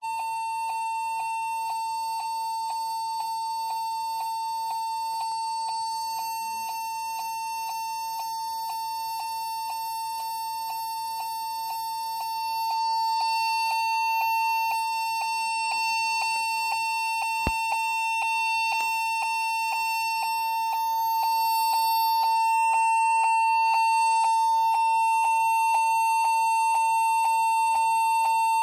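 Laptop's beeper sounding one continuous beep that does not stop, a steady high tone held without a break: a fault beep from a laptop that will not boot into Windows.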